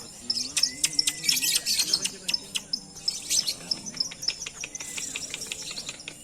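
Lovebirds chirping and chattering in a rapid, dense run of high-pitched notes.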